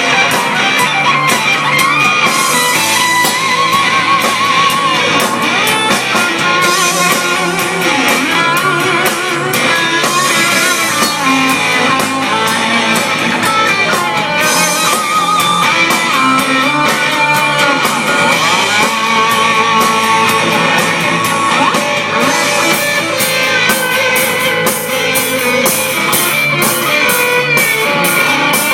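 Loud rock music with electric guitar and a drum kit playing on without a break.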